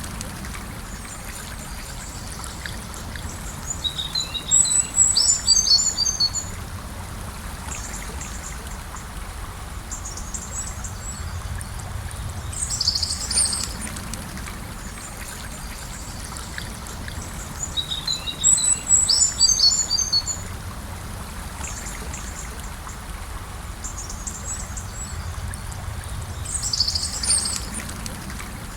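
Gentle river flowing with a steady low rush of water, while small birds chirp in quick bursts of high notes. The same bird phrases come back about every 14 seconds, twice within this stretch.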